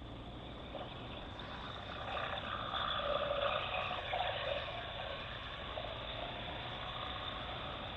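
BMW R1200GS Adventure motorcycle with its boxer-twin engine, riding along. It swells louder about two seconds in and eases back a little after about four seconds.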